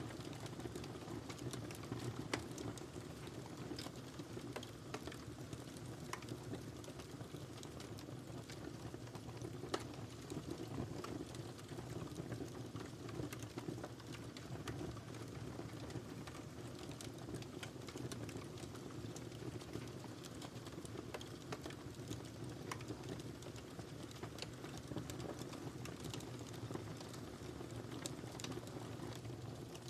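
Wood fire burning in a fireplace: steady crackling with frequent small sharp pops and snaps scattered unevenly over a low, even rush of the flames.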